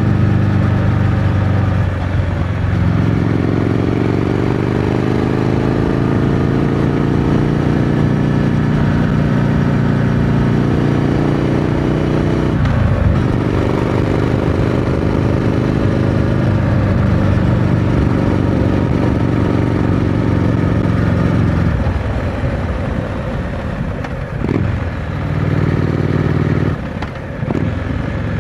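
Triumph Scrambler 900 parallel-twin engine on its stock exhaust, pulling with the revs climbing steadily in one gear, then a shift about 12 seconds in and another rising pull. About 22 seconds in the rider comes off the throttle, the engine note drops, and there are a few short throttle changes near the end.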